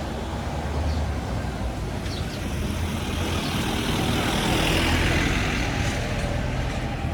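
A road vehicle passing close by: a steady engine rumble with a swell of road noise that builds to a peak about four to five seconds in, then fades.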